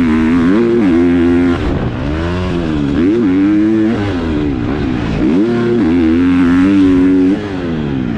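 KTM four-stroke motocross bike with an aftermarket exhaust ridden hard on a track, the engine revving up and falling back over and over as the throttle is opened and chopped every second or two.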